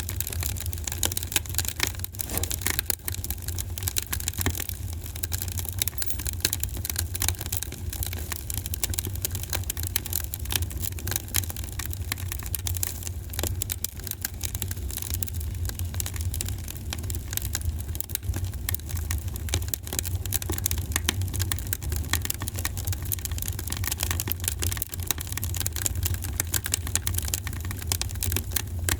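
Wood fire burning in a fireplace, crackling with dense, irregular quick pops and snaps over a steady low rumble.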